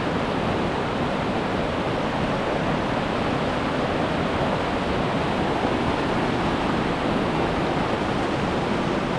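Loud, steady rush of water from a waterfall and its river, an even hiss-like roar with no breaks.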